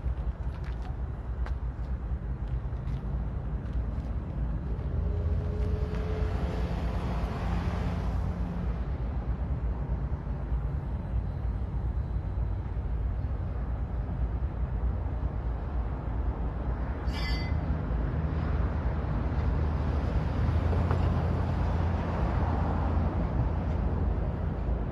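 Diesel engines of heavy equipment running steadily, with a brief sharp metallic clank about two-thirds of the way through.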